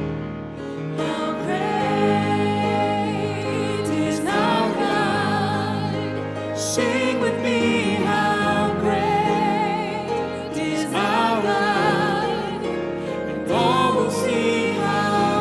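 A hymn sung with vibrato over keyboard accompaniment.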